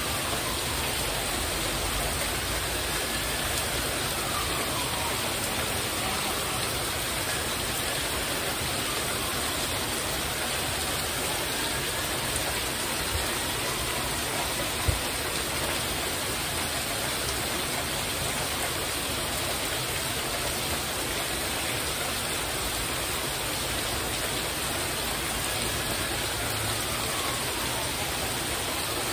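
Heavy rain drumming steadily on a porch roof, an even hiss that doesn't let up. A faint tone slowly rises and falls in the background, and there is a single brief knock about halfway through.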